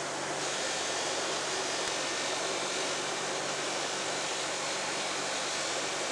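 Electric power tool running steadily with an even whirring hiss and a faint motor hum, stripping the vise's steel handles down to bare metal.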